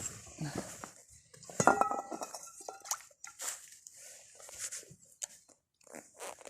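Hard objects being handled: scattered knocks and clicks, with a brief ringing clink, like metal or glass striking, about two seconds in.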